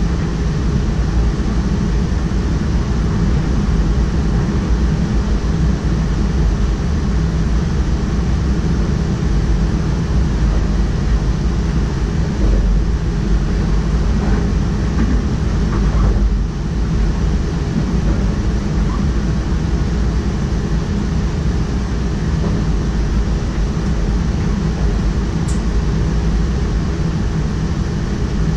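DDAR double-deck train running at speed, heard from the driver's cab: a steady, loud rumble of wheels on rails and running noise.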